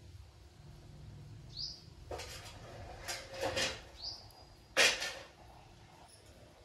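A bird chirping a few times: short rising chirps and brief sharp calls, the loudest about five seconds in, over a faint low hum.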